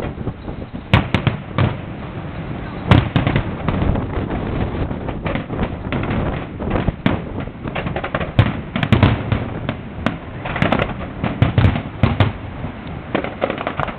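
Fireworks going off in a rapid, irregular string of sharp bangs, many with a deep thump, with no let-up.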